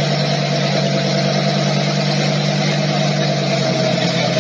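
Motor vehicle running at a steady speed: an even engine drone with a constant rush of road and wind noise, unchanging throughout.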